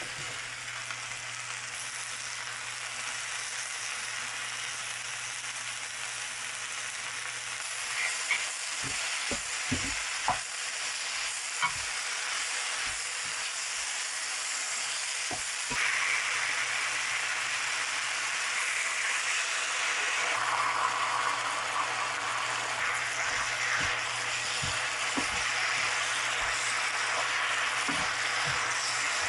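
Food sizzling as it stir-fries in a hot pan. The sizzle gets louder about halfway through, and a few sharp utensil knocks come about a third of the way in.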